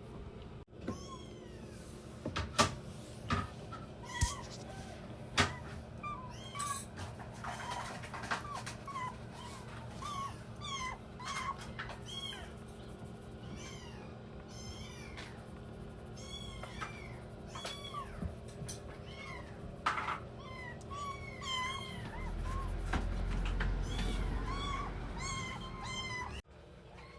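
Young kittens mewing over and over, many short high-pitched calls overlapping one another. A few sharp knocks come in the first few seconds, and a low rumble runs briefly near the end.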